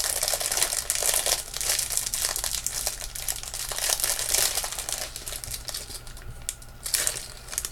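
Crinkling and rustling of a jewellery packaging bag being handled and opened to free a necklace, dense at first and thinning out toward the end.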